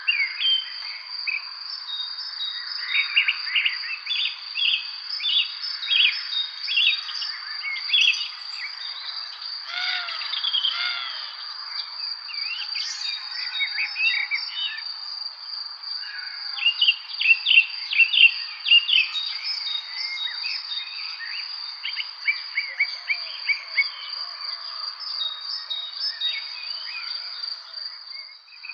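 Songbirds chirping and singing in quick runs of short notes, busiest a little past halfway, over a steady high-pitched insect trill.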